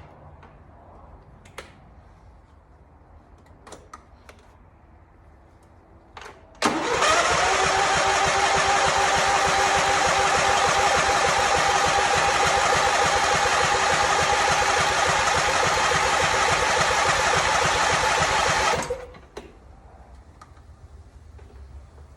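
Husqvarna 2246 riding mower's engine turned over by its electric starter, which is powered from a jump-starter battery pack. About seven seconds in it starts with a short rising whine, runs steadily for about twelve seconds, then cuts off. Before that, only a few faint clicks.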